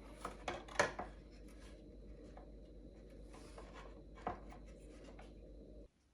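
Light handling sounds of hand work on wooden furniture: a few short knocks and scraping rubs, the loudest about a second in and another after four seconds, over a steady low hum that stops abruptly near the end.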